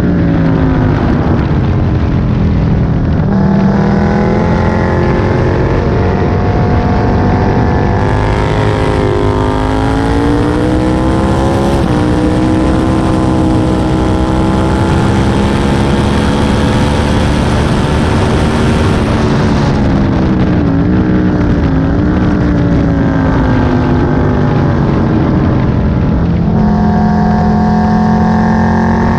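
Aprilia Tuono 1000's 998 cc V-twin engine heard on board at full track pace. It revs up through the gears with a sudden pitch drop at a shift, holds high revs with rising wind rush, then falls away with short blips as it is shifted down for braking, and pulls hard again near the end.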